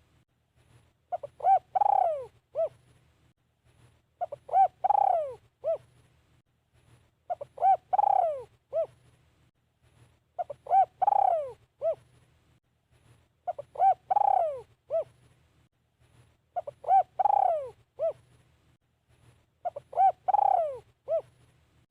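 Decoy spotted dove cooing, repeating the same phrase about every three seconds: two short notes, a longer falling coo and a short closing note. A faint steady low hum runs underneath.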